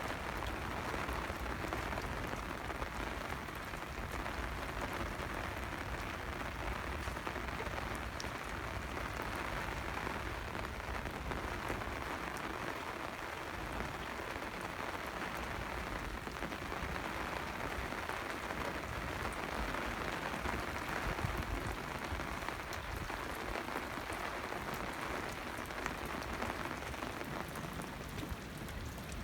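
Steady rain falling, an even hiss of drops with fine scattered ticks that holds level throughout.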